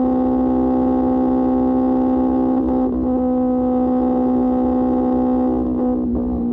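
QJ Motor SRK600's inline-four engine through an SC-Project exhaust, running at a steady speed with an even, unchanging note. It falters briefly about three seconds in and again near the end, as the throttle eases off.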